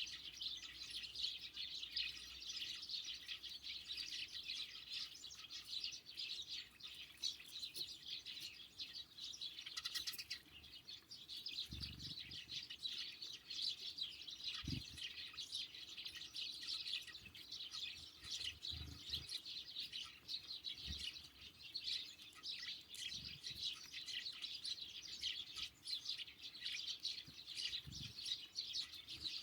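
A flock of sparrows and other small songbirds chirping in a continuous, dense chatter, with several soft, low thumps scattered through the second half.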